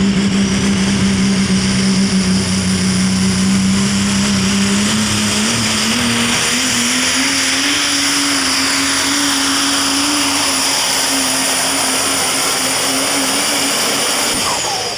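Super stock diesel pulling truck at full throttle dragging the weight sled, its engine pitch holding steady, then climbing over a couple of seconds and staying high, with a thin high whine above. Near the end the engine drops off and the pitch falls as the pull ends.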